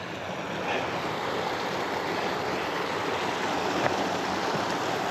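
Rushing river water flowing steadily below a reservoir dam, a continuous even rush of water.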